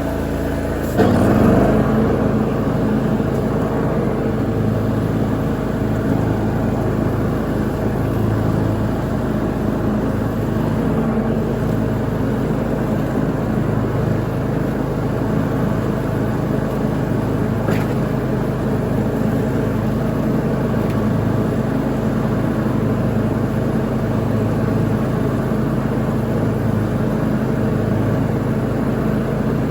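Lawn mower engine running steadily while mowing. Its pitch and level surge briefly about a second in.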